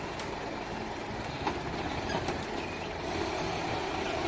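Heavy hooklift truck running with a steady rumble, with a few light metallic clicks.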